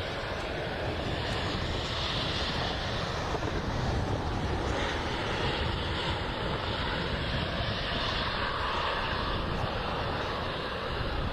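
Steady rushing roar of strong storm wind, with a rough low rumble from gusts buffeting the microphone.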